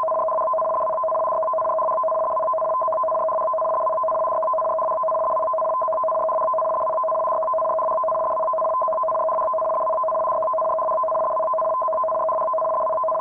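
Steady two-tone electronic alert tone, held unbroken over a faint hiss, that starts abruptly: a warning alarm signal for a typhoon marine-warning broadcast.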